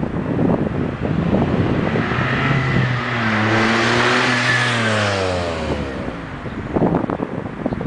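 Smart car with an XSP exhaust and no catalytic converter driving past, its three-cylinder turbo engine note swelling to a peak and then dropping sharply in pitch as it goes by. There is wind noise on the microphone before and after the pass.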